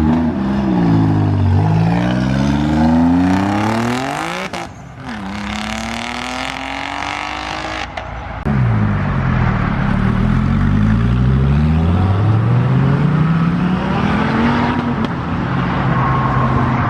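Twin-turbo car engine accelerating hard, its pitch climbing steeply and falling back at a shift about four and a half seconds in, then climbing again. About eight and a half seconds in, a louder run of rising engine revving starts abruptly and settles into a steady note near the end.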